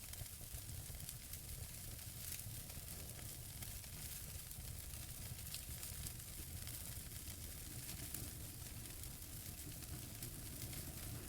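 Wood fire burning in a fireplace: a steady soft hiss with scattered small crackles from the burning logs, over a low rumble.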